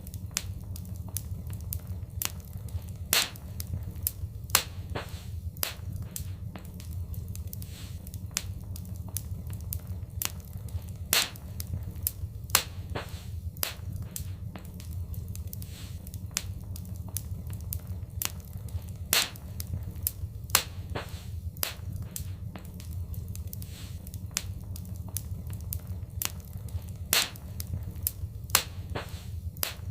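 Fireplace fire crackling, with irregular sharp pops and snaps, a handful of them much louder than the rest, over a steady low rumble.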